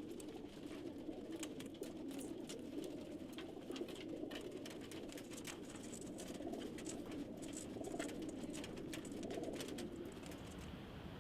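A flock of racing pigeons cooing together in a continuous overlapping murmur, with many scattered sharp clicks and taps over it that thin out near the end.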